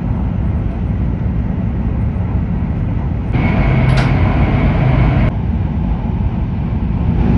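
Hokuriku Shinkansen E7/W7-series train running at speed, heard inside the passenger cabin: a steady low rumble with rushing air noise, which jumps in level at cuts between clips and briefly carries a high whine in the middle.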